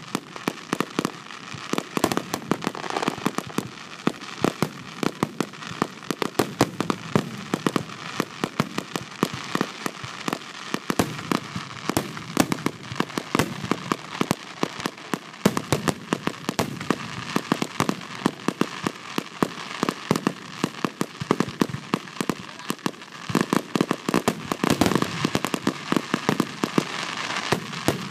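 Aerial fireworks going off in a dense barrage: rapid, overlapping bangs and crackles of shells bursting, with no let-up.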